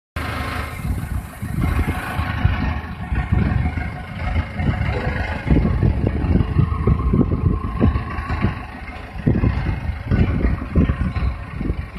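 HBX280 three-cylinder automatic bagging straw baler running: steady machine noise with many irregular low thumps and knocks.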